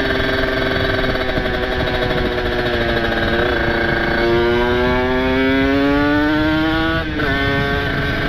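Kawasaki Ninja 150RR's ported single-cylinder two-stroke engine pulling the bike along at a steady speed, then revving up with a rising pitch from about halfway. Near the end the pitch drops sharply as it shifts up a gear. Wind rushes over the microphone throughout.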